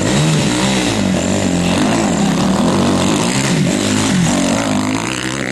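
Racing motorcycle engine revving hard, its pitch rising and falling over and over with the throttle and gear changes.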